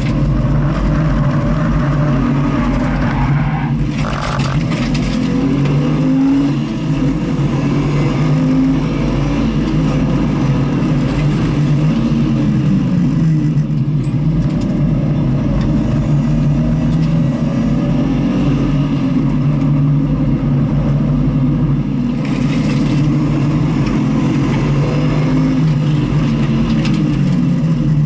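Engine of a vehicle lapping a race circuit, its pitch rising and falling repeatedly as it accelerates and eases off through the corners, under a heavy low rumble of wind and road noise.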